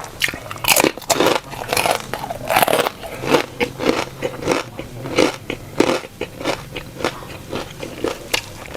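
Close-up sounds of a person eating: irregular crunching bites and chewing, with the loudest crunches in the first three seconds.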